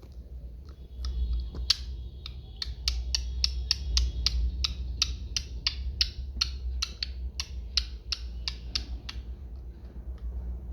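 Pet budgerigar tapping its beak against a hard surface in quick, even clicks, about three or four a second, with faint soft chirping near the start.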